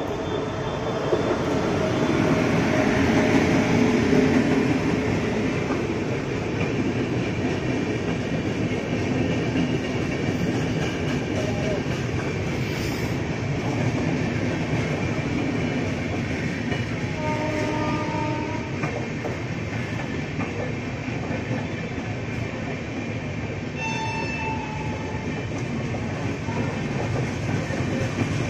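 Passenger train hauled by a WAP-7 electric locomotive rolling past on the platform track: a steady rumble of the coaches with wheels clattering over the rail joints, loudest in the first few seconds as the locomotive goes by. Brief pitched tones sound twice in the second half.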